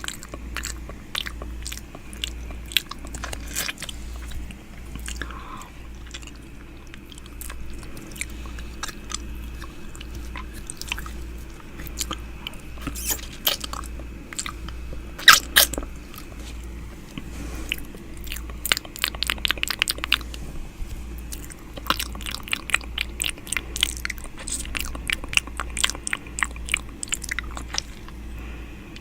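ASMR 'ear eating' mouth sounds right at the microphone: wet clicks and smacks of lips and tongue, the loudest about fifteen seconds in, with quick runs of clicks near twenty seconds and again from about twenty-two seconds, over a low hum.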